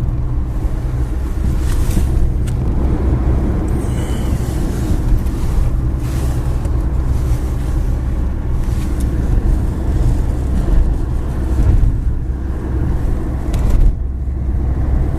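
Car interior noise while driving: a steady low rumble of engine and tyres on the road heard from inside the cabin.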